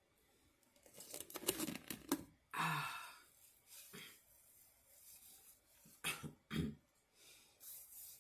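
Takeout food packaging being handled: rustling, scraping and small knocks, with two dull thumps a little after six seconds in.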